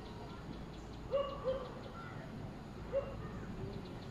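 A bird calling in short, low, arched notes: a pair about a second in and another near three seconds.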